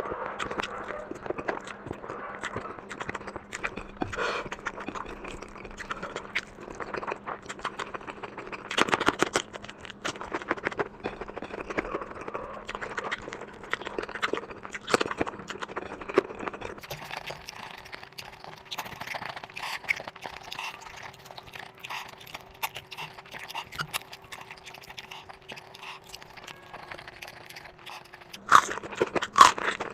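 Close-miked eating sounds from a mukbang: chewing and mouthfuls of food, with many small clicks and scrapes of food and utensils against a plate. A louder cluster of clicks comes about nine seconds in and again near the end.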